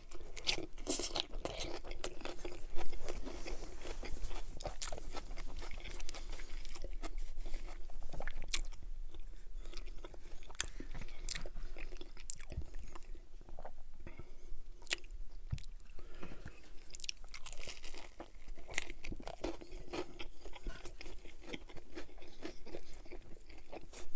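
Close-miked chewing of a chicken Caesar wrap: a bite into the wrap, then steady crunchy chewing of the romaine lettuce and chicken, many short crunches and clicks, the loudest about three seconds in.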